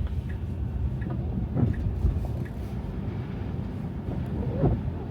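Car driving on a snow-covered road: a steady low rumble of tyres and engine, with a brief bump about a second and a half in and another near the end.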